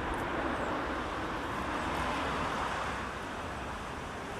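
Road traffic on a town street: a steady wash of passing car noise that swells slightly around the middle.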